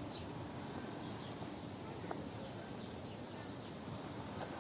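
Outdoor crowd ambience: a steady murmur of many people talking at once, with a few faint bird chirps and a single short click about two seconds in.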